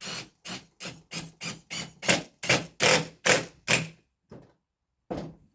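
Repeated hammer blows in a steady rhythm of about three a second, getting louder, then two more spaced-out strikes near the end.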